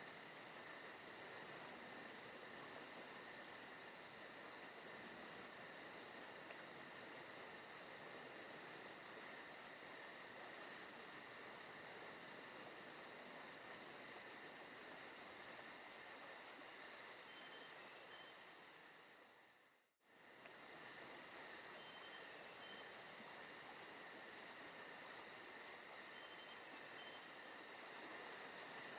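Forest ambience recording of crickets chirring steadily at low volume. About two-thirds of the way through it fades out to near silence for a moment and straight back in.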